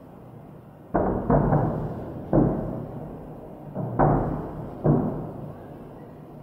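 Distant fireworks salute shells bursting, about five booms a second or so apart, each rolling away over about a second as it echoes off the surrounding buildings.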